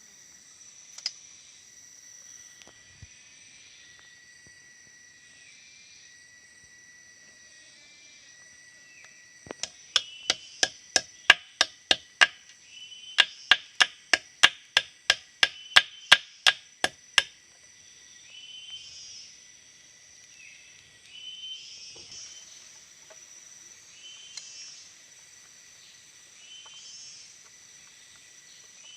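A run of about twenty sharp, evenly spaced clicks, roughly three a second with a short break midway, starting and stopping abruptly, over steady insect chirping.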